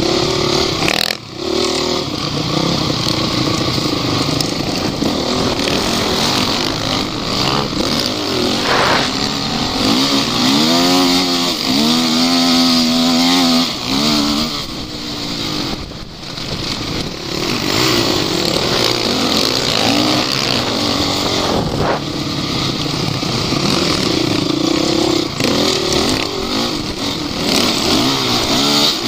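Off-road vehicle's engine running hard, its pitch rising and falling over and over as the revs change, with a run of quick rev swings about ten to fourteen seconds in.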